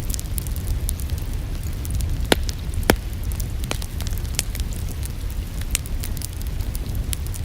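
Wood fire burning in a fireplace, crackling with frequent sharp pops over a steady low rumble; two louder pops come a little over two seconds and about three seconds in.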